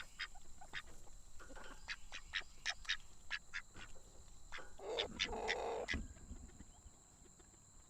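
Ducks calling in short, sharp notes that come quickly and irregularly, with a louder, harsher stretch about five seconds in, then quieter.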